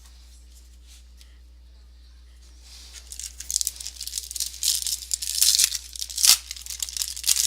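Foil trading-card pack being torn open and the wrapper crinkled. It starts about two and a half seconds in as uneven crackling and ripping, with a sharp rip a little past six seconds.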